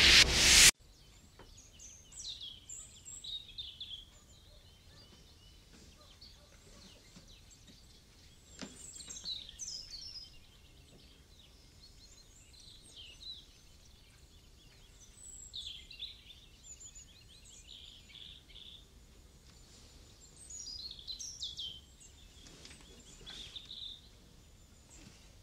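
Music cuts off abruptly under a second in, then birds sing in short bursts of chirps every few seconds over a faint steady background.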